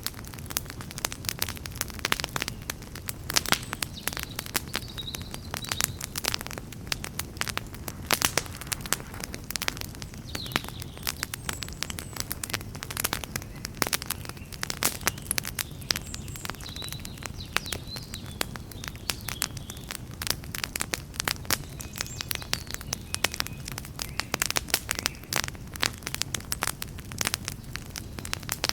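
Campfire burning: wood crackling and popping in a dense, irregular stream of sharp snaps, over a steady low rumble of the flames.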